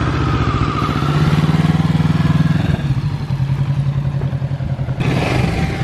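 Kawasaki Z650's parallel-twin engine pulling away as the clutch is let out. It grows louder for a couple of seconds, eases back about three seconds in, then runs on steadily.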